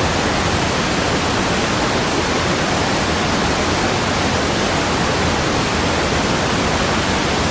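Steady rushing water, like a waterfall: an even, unbroken hiss and rumble that does not change in level.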